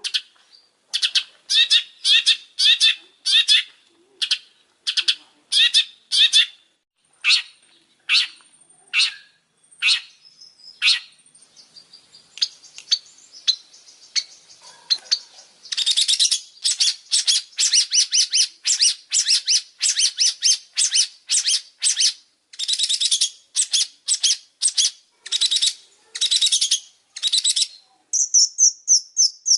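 Long-tailed shrike (pentet) singing a long series of short rasping notes, about two a second, with a quieter stretch midway. Near the end it switches to a faster run of thinner, higher notes.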